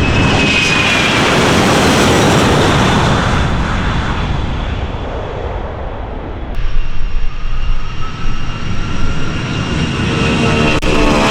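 Jet airliner engines at close range and high power: loud noise with a high whine that falls in pitch as the aircraft passes. About six and a half seconds in, the sound switches abruptly to another loud, gusty jet rumble with a steady high whine.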